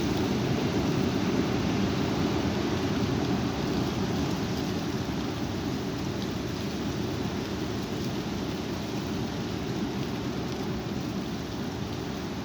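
High wind blowing in a steady rush, with a low rumble of wind buffeting the microphone, easing a little toward the end.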